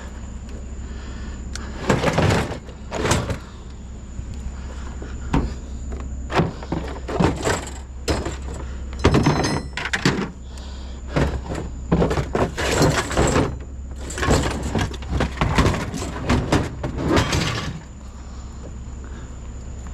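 Scrap metal pieces being handled and dropped: an irregular string of knocks, clanks and rattles from about two seconds in until near the end, over a steady low hum.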